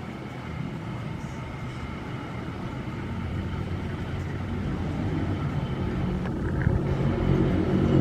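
Diesel locomotive approaching: a low engine drone that grows steadily louder.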